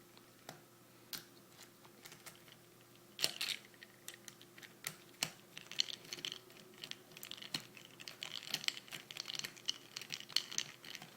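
Light, irregular clicking and tapping of small parts being handled while an airsoft AK-47 is taken apart. A few separate clicks at first, then a denser run of small clicks through the second half.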